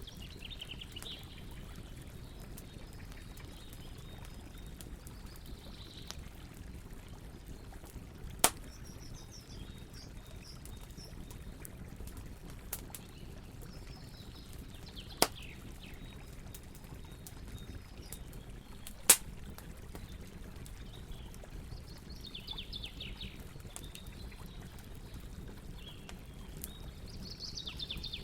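Campfire burning with a steady low rush and light crackling, broken by three sharp, loud pops from the burning wood. Short bird calls chirp now and then in the background.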